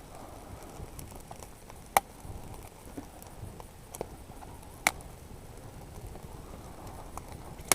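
Dry twigs cracking and snapping as a small campfire is built: three sharp cracks about three seconds apart with fainter ticks between, over a low steady hiss.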